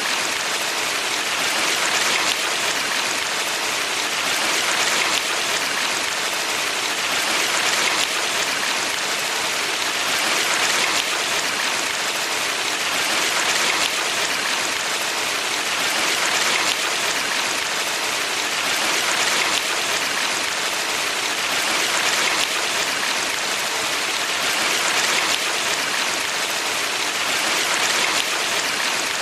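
Valley stream water rushing over rocks: a steady, even hiss of running water that swells gently and falls back about every three seconds.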